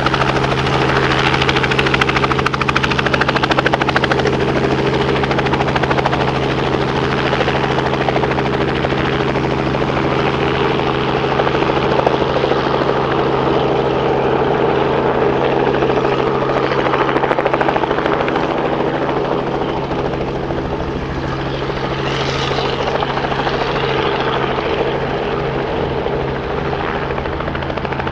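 Helicopter running close by with a steady rotor and engine drone, easing slightly in level in the second half.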